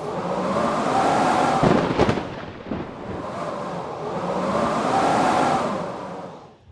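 Howling blizzard wind, its whistling pitch rising and falling in slow gusts over a rushing hiss, with a sudden heavy crack about two seconds in.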